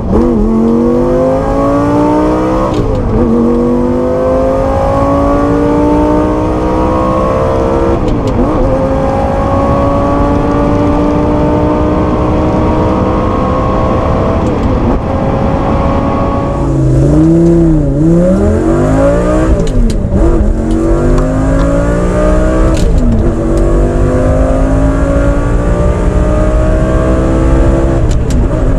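Lamborghini Gallardo Spyder's V10 engine pulling hard through the gears. Its pitch climbs in each gear and drops at each shift. A little past halfway the revs fall away, then climb again through further shifts.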